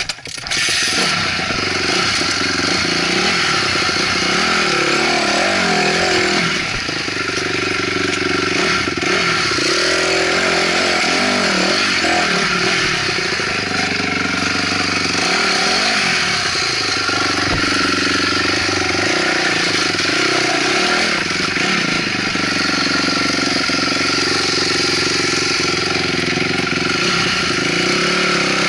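2008 Honda CRF250R's single-cylinder four-stroke engine, loud and close, revving up and down continuously as the dirt bike is ridden over a trail section. It comes in suddenly about half a second in.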